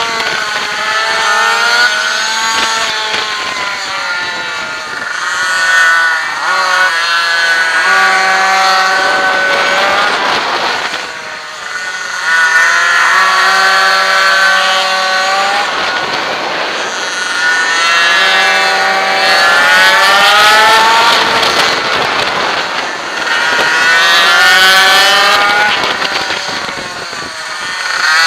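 Minimoto's small two-stroke engine revving hard on track, heard from an onboard camera: its pitch climbs, then drops off sharply when the throttle is shut, and climbs again, about five times.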